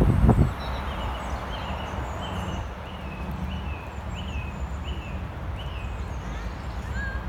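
Small birds chirping, a string of short repeated calls about two a second with fainter higher notes, over a steady low rumble of outdoor background noise. A brief low burst of sound sits right at the start.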